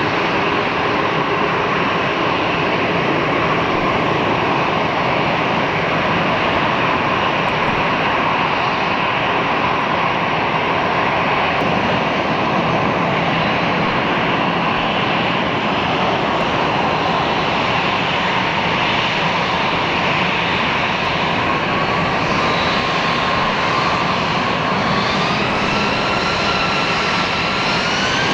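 Airbus A340-300's four CFM56 jet engines running with a steady rushing noise as it lines up, then spooling up to takeoff power from about 21 seconds in, a whine climbing steadily in pitch.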